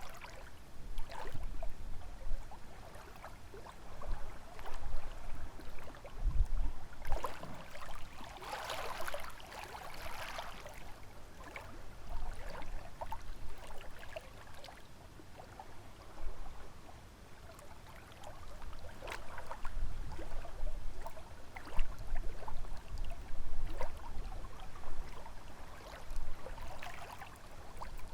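Small lake waves lapping and splashing at the water's edge in irregular surges every few seconds, over a low rumble of wind.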